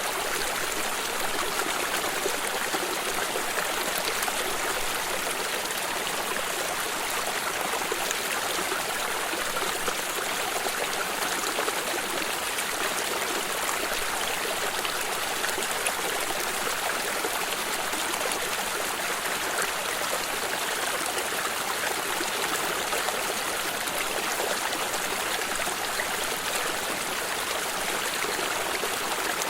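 A running stream, its water babbling and trickling in a steady, even rush.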